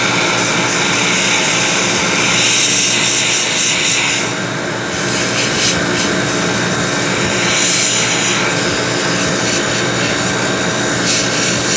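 Running air-conditioning machinery humming steadily with several steady tones, while a low-volume water spray from a cleaning probe hisses in bursts: once for about the first four seconds and again briefly near eight seconds.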